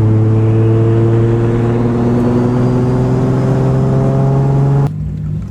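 Turbocharged RB25 inline-six under hard acceleration in a 240SX, heard from inside the car. The revs climb slowly and steadily in one gear for nearly five seconds, then the throttle is cut suddenly near the end.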